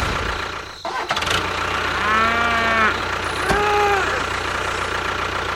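A cow mooing twice, a long drawn-out call and then a shorter, higher one, over a steady low engine hum.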